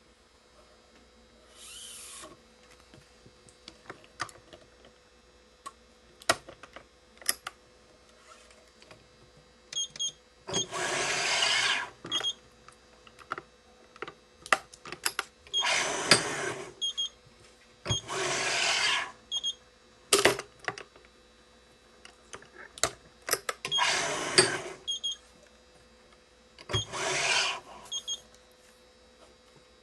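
Yonex Nanogy 99 badminton string being pulled through the racket's grommet holes while pre-weaving, making rasping swishes of about a second each, six times, with small clicks and taps in between.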